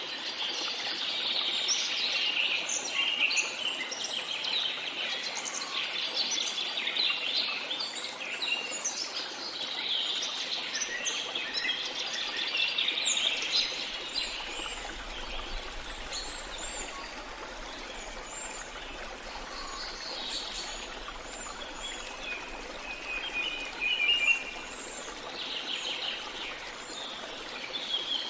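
Several songbirds chirping and trilling over a steady rush of flowing water. The birdsong is busiest in the first half and thins out later.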